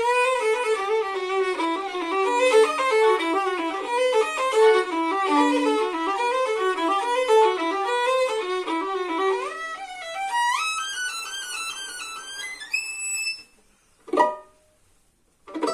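Solo violin playing a fast run of quick notes, then climbing quickly to a high note that stops about thirteen seconds in. This is followed by two short plucked pizzicato chords about a second and a half apart that close the piece.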